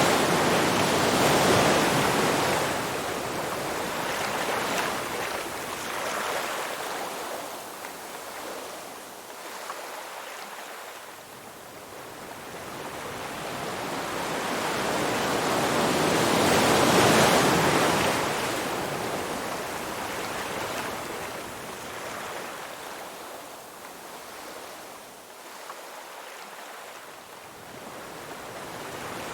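Ocean surf: waves breaking and washing in, the rushing noise swelling and fading in slow surges, loudest about a second in and again near the middle, and building once more near the end.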